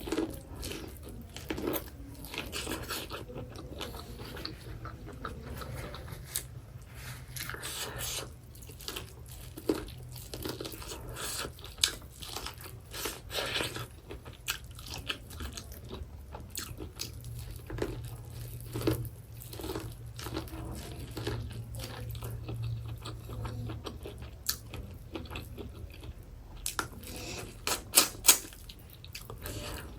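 Close-up chewing and biting of boiled corn, with soft wet crunches and many small clicks. A few sharper, louder clicks come near the end.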